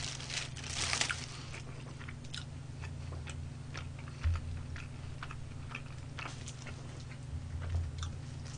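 Close-up chewing of crispy fried chicken: wet, crackly crunching and smacking, densest in the first second, over a steady low hum. A soft low thump about four seconds in.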